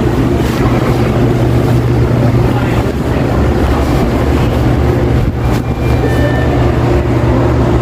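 Supermarket ambience at the butcher and cold-cuts counters: a steady low machine hum under a general din of the shop floor. A few short electronic beeps come about two-thirds of the way in, typical of the queue-number caller.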